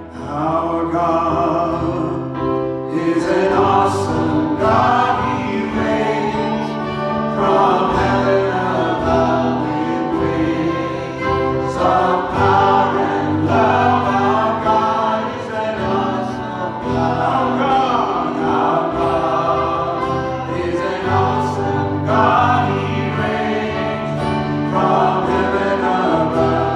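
Worship music: a choir singing a Christian song over instrumental accompaniment with a steady bass line.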